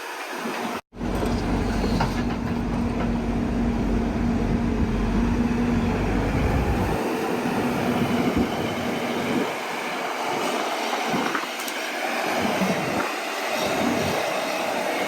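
Heavy construction machine's diesel engine running, with a steady hum and a deep rumble that eases off about halfway through. The sound cuts out for a split second about a second in.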